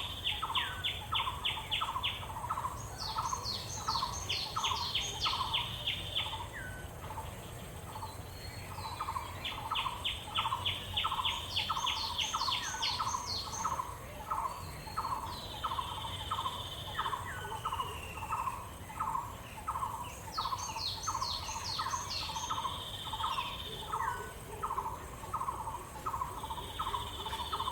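Birds calling: a short note repeated about twice a second throughout, joined every few seconds by bursts of rapid high-pitched notes and quick falling whistles.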